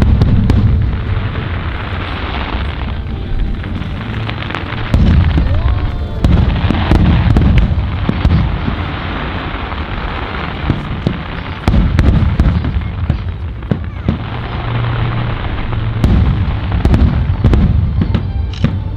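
Aerial fireworks display: a continuous barrage of shells bursting with deep booms in quick succession, with crackling in between and louder surges several times.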